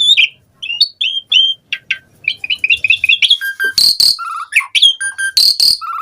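Pied starling (jalak suren) singing a fast, varied song of short whistles and chirps, with harsh rasping notes about four and five and a half seconds in.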